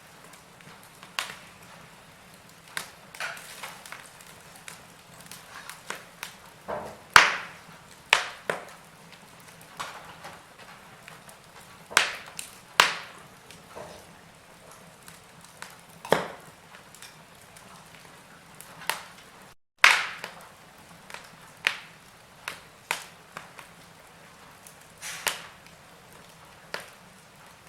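Wood fire in a fireplace crackling: irregular sharp pops and snaps, a few of them loud, over a faint steady low hum. The sound drops out for an instant just past the middle, right before one of the loudest pops.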